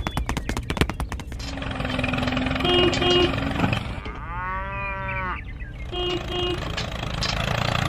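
A cow moos once, a single arching call about four seconds in, after a rapid run of clicks at the start.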